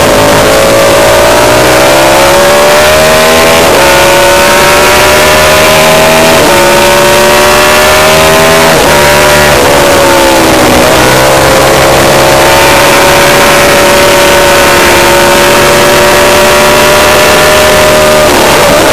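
Racing motorcycle engine at full throttle, its pitch climbing through the revs and dropping sharply at each of several gear changes. Near the middle the revs fall away and then build again.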